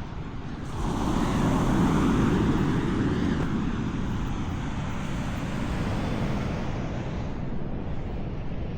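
Rushing noise of wind buffeting the microphone together with sea surf, swelling about a second in and then running on steadily.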